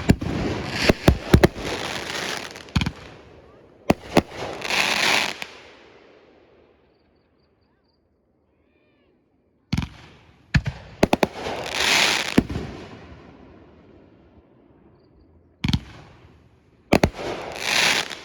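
Aerial fireworks shells bursting in three volleys: each a few sharp bangs followed by a swell of hissing crackle lasting a second or two, with about three seconds of silence between the first and second volleys.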